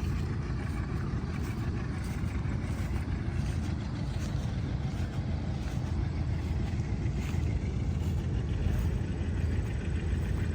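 An engine running steadily, a low rumble with no change in speed.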